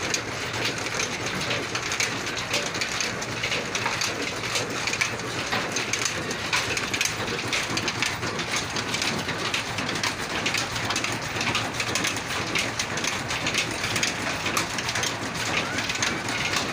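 Slow-speed diesel oil engine (rated 300 RPM) running, a steady dense clatter of many small knocks and rattles.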